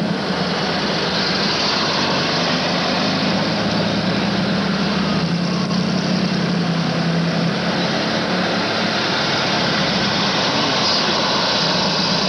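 Steady hum of a car engine running under a constant rushing noise, heard from a vehicle.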